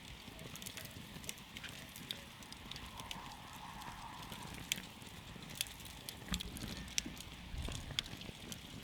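Wood campfire burning and crackling, with a steady soft hiss and frequent sharp pops and snaps, some louder than the rest.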